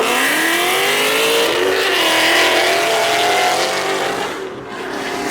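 Car engine accelerating hard: its pitch climbs over the first second, holds with some wavering, then drops and fades a little near the end.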